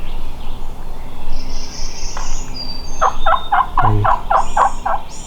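Wild turkey gobbler gobbling at close range: one fast rattling gobble of about eight notes, starting about three seconds in. Short high songbird chirps come before it and near the end.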